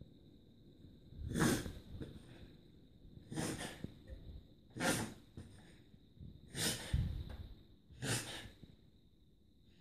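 Whippet reverse sneezing: five loud, noisy pulls of air in through the nose, each about half a second long, roughly one every one and a half seconds. The owner puts the episodes down to an allergy.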